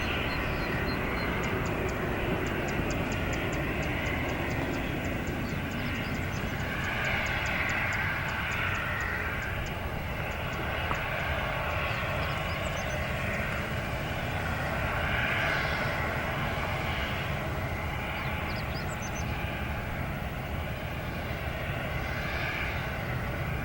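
Airbus A320-211's CFM56 jet engines running, a steady rumble and whine whose tones waver slightly up and down.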